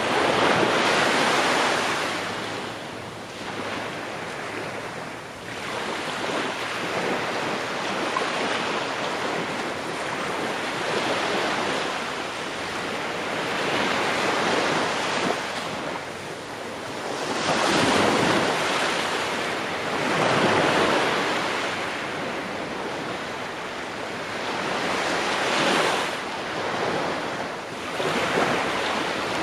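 Ocean waves breaking on a shore, a steady wash of surf that swells and recedes every few seconds, with stronger breakers about a second in and again about two-thirds of the way through.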